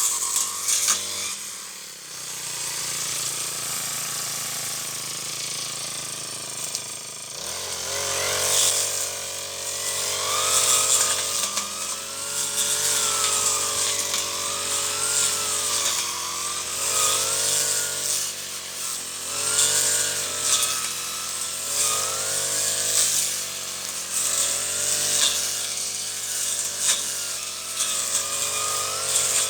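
Brush cutter engine running while cutting weeds, quieter for the first few seconds and then revving up about seven seconds in, its pitch surging and easing every second or two as the blade works through the growth.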